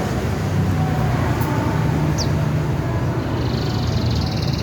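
Songbird calling: a few brief, high, descending chirps, then a fast buzzy trill from about three and a half seconds in, over a louder steady low rumble.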